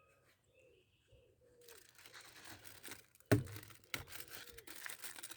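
A food wrapper crinkling and tearing from about a second and a half in, with a sharp knock about three seconds in; a pigeon cooing faintly underneath.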